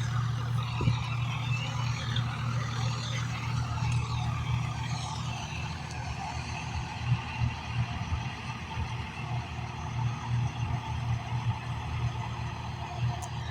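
Tractor diesel engine running steadily with a low drone, its loudness wavering a little.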